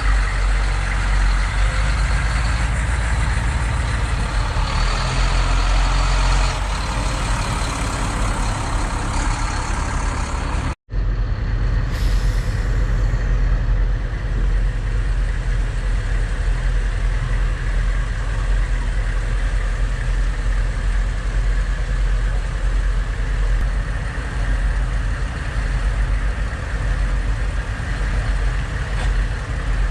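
Military truck engines running steadily with a deep, continuous rumble, cut off for a split second about eleven seconds in before carrying on.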